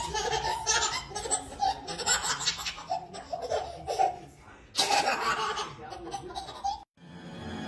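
A baby laughing in repeated bursts of giggles and belly laughs, which cut off abruptly about seven seconds in.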